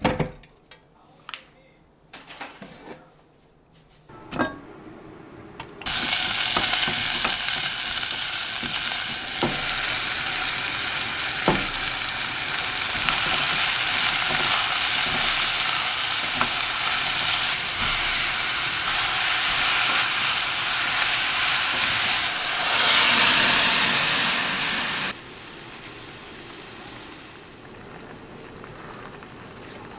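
Cabbage, leek and mushrooms stir-frying in a saucepan over a gas burner: a loud, steady sizzle with a few sharp knocks of a wooden spatula against the pot. Just before the end it swells briefly, then drops suddenly to a quieter steady bubbling as the spicy broth simmers. It opens with faint rustling and soft handling clicks.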